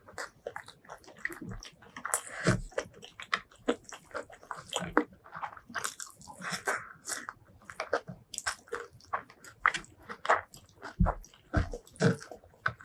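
Close-miked eating: a person biting and chewing food with crisp crunches and wet mouth clicks in an irregular, continuous run.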